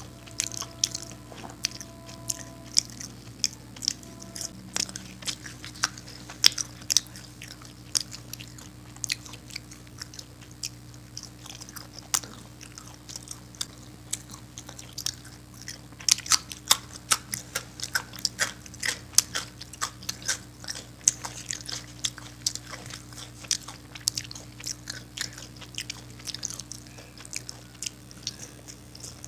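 Close-miked eating with the hand: chewing with many sharp wet mouth clicks and smacks, over a steady low hum.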